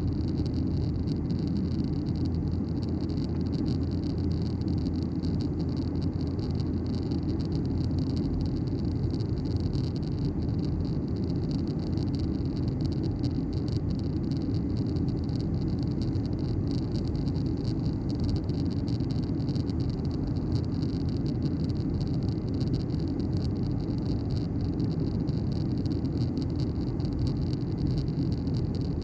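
Steady cabin noise inside a Boeing 737-900ER in flight: the hum of its CFM56 turbofan engines mixed with the rush of air over the fuselage. It holds a constant, deep level throughout, with a fainter hiss on top.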